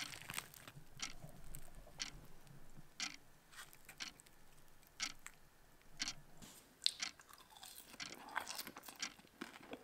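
A person chewing and crunching on fried chips: soft, irregular crunches and clicks.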